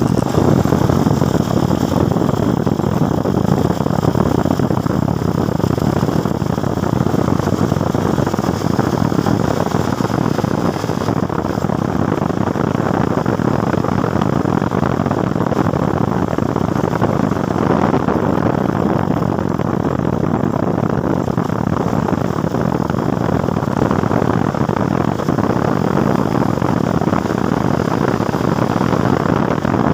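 Motorcycle under way: a steady rush of wind and road noise over the microphone, with the engine running underneath.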